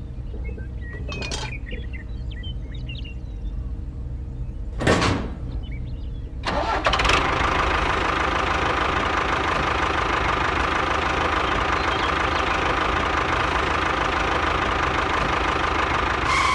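Engine sound effects for a stop-motion machine: a low engine idle with two short whooshes, then a little over six seconds in a much louder engine run with a steady whine starts up, holds steady and cuts off abruptly.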